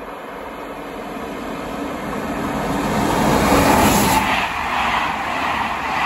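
Intercités passenger train, an electric locomotive hauling a rake of coaches, approaching at speed and passing below. The rumble and rail noise grow steadily louder, peak about four seconds in as the locomotive goes under, then continue as the coaches' wheels roll past.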